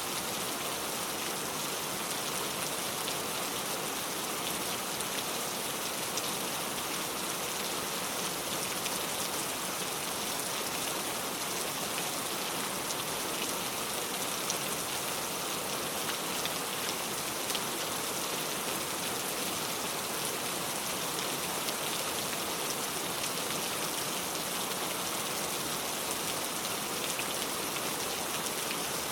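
Steady rain falling: an even hiss with a fine patter of drops that does not change.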